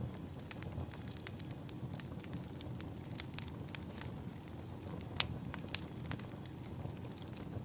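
Wood fire crackling, with irregular sharp pops over a steady low rumble; the loudest pop comes about five seconds in.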